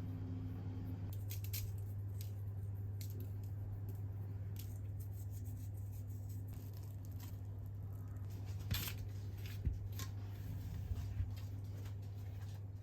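Scattered light clicks, taps and rustles of small objects being handled, over a steady low hum.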